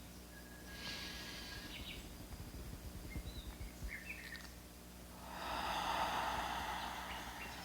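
A slow, audible breath that swells about five seconds in and fades over two seconds, a cleansing breath out through the mouth. There is a shorter breath about a second in, and a few faint bird chirps in between.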